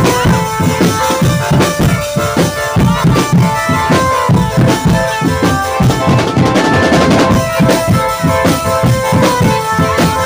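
Drum band playing: fast, dense bass and snare drum strokes under a held melodic line.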